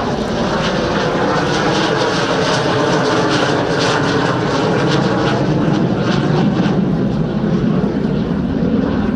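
MiG-21 jet fighters passing overhead with a loud, steady jet engine noise and a rasping crackle in it.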